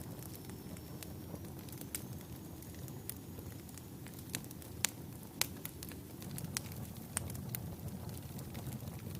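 Wood fire burning in a fireplace: a steady low rumble of flames with scattered sharp crackles and pops, two louder pops about halfway through.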